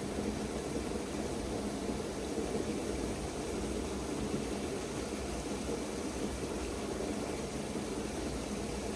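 Steady rushing noise with no distinct events, holding an even level throughout.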